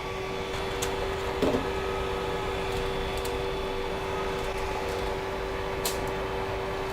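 Creality CR-10S Pro 3D printer humming steadily, a fan-like two-note tone, with a few light clicks and a soft knock about a second and a half in.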